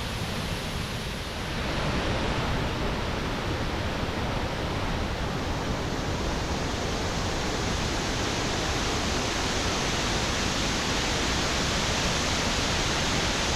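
Panther Creek Falls, a loud, steady rush of falling water, dipping slightly in the first second or two.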